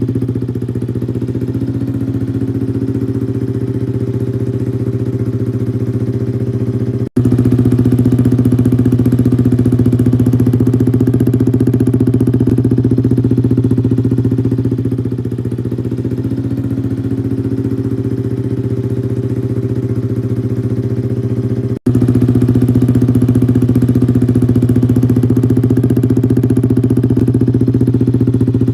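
Yamaha R15 V3's single-cylinder engine idling steadily through an aftermarket SC Project exhaust, a loud, even low note, broken by two split-second gaps.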